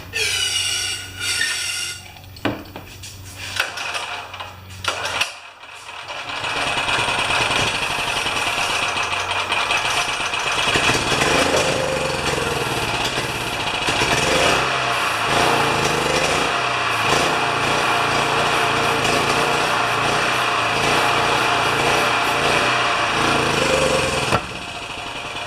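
A few clicks and knocks, then a loud, steady machine noise from about six seconds in that stops shortly before the end.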